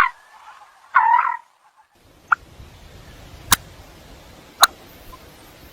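Common coot giving short, loud calls, one about a second in, followed by a brief higher note and two sharp clicks.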